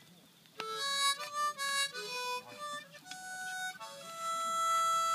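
Music: after a brief pause, a single reedy instrument plays a melody of quick short notes, then longer held notes.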